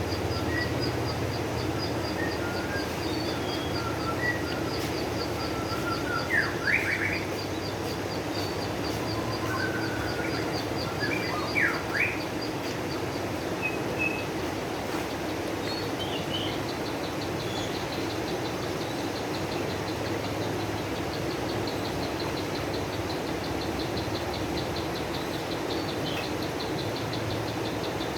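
Small birds chirping over a steady rushing background: a fast, high, ticking trill runs through much of it, and short upward-sweeping calls stand out about a quarter and again about halfway through.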